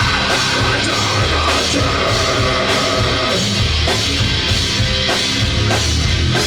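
Live rock band playing loudly, with a drum kit and heavy bass driving a steady beat.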